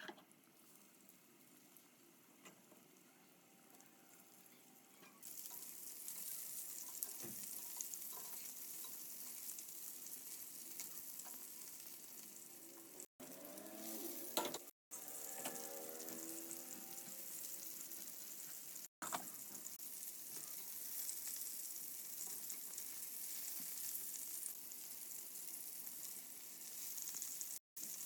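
Food frying in hot oil: a steady high sizzle that starts suddenly about five seconds in, with a few abrupt breaks.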